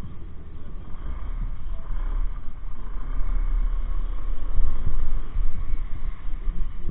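Riding noise from a moving motorcycle: heavy wind rumble on the microphone over steady engine and road noise.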